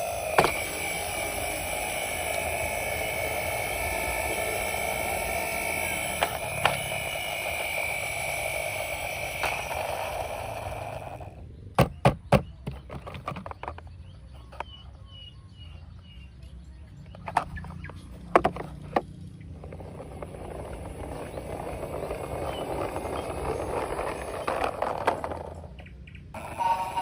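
Toy vehicles being played with: a steady whirring, rolling noise that stops for several seconds in the middle, where a few sharp clicks and knocks sound, then resumes.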